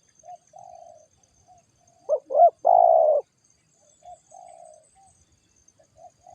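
Spotted doves cooing. One loud call, two short notes and then a long drawn note, comes about two seconds in, with fainter coos from another dove before and after it.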